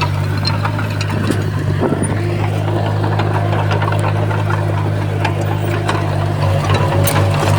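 Crawler bulldozer's diesel engine running steadily, with scattered metallic clicks and clanks over it. The engine note wavers briefly near the end.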